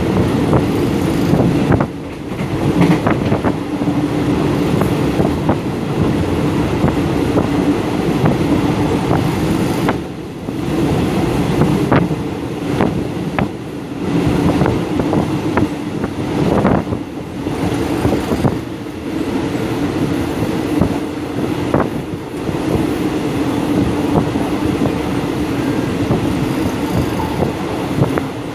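Express passenger train carriage running at speed, heard from inside: a steady rumble of wheels on rail, with irregular sharp clacks and rattles and brief dips in loudness.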